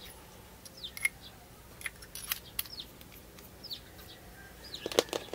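Small birds chirping faintly in short falling notes, scattered through the whole stretch, with a few light clicks and taps of metal fountain pens being handled over a tray, the loudest pair of taps near the end.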